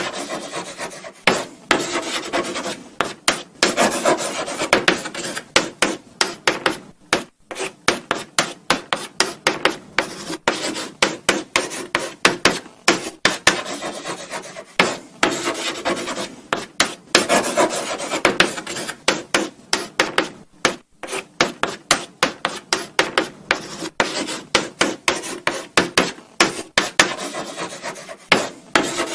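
Chalk writing on a blackboard: quick, irregular scratching strokes, with brief pauses between bursts of writing.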